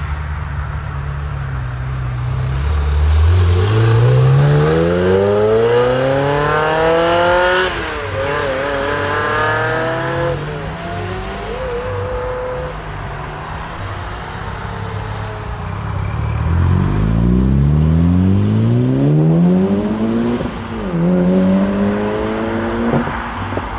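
High-performance car engines accelerating hard, twice: each time the engine note climbs steeply through the revs and breaks at a gear change near the top, the second pull followed by another brief rise. Between the two pulls the engine note falls back and wavers.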